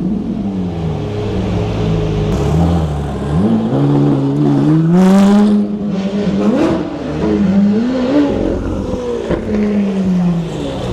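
Supercar engine running in street traffic, revved up and down several times, its pitch rising and falling as it drives by.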